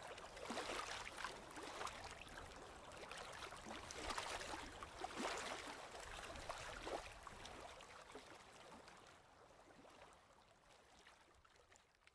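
Sea waves washing in, swelling about half a second in and again around four to five seconds, then fading out steadily over the last few seconds.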